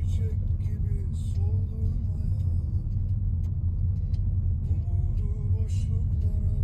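Steady low rumble of a car in motion, with soft music playing underneath.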